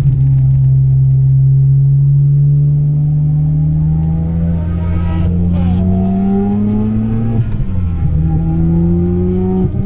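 Mazda RX-7 FD3S's turbocharged 13B rotary engine accelerating hard through a gear on track, its pitch climbing steadily. About seven and a half seconds in, an upshift drops the revs, and it pulls and climbs again.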